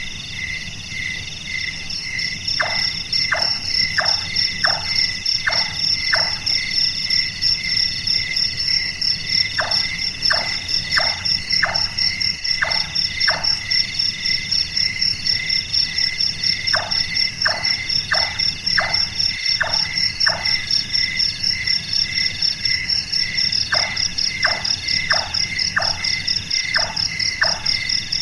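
Large-tailed nightjar calling: four bouts of about six hard 'tok' notes, each falling quickly in pitch, under two a second, with pauses of a few seconds between bouts. This is the call likened to a carpenter hammering. Under it runs a steady pulsing chorus of crickets and frogs.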